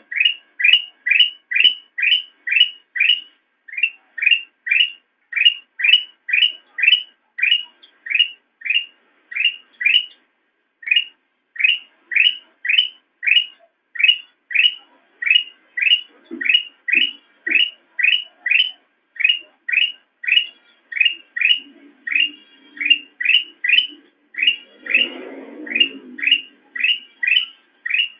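Kutilang emas (ruby-throated bulbul) repeating one short, sharp chirp over and over at a steady pace, about two and a half notes a second.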